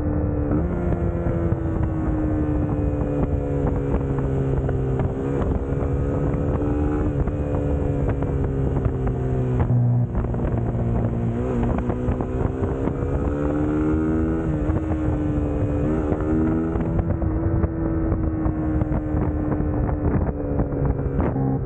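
Suzuki GSX-S150's single-cylinder four-stroke engine running while the bike is ridden, its revs rising and falling several times with throttle changes and gear shifts.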